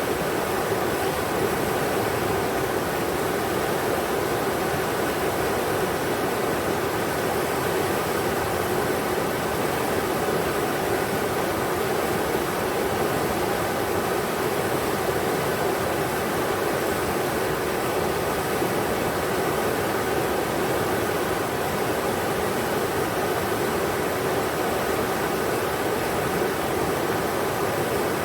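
River water rushing steadily over rocks: a constant, even roar of moving water.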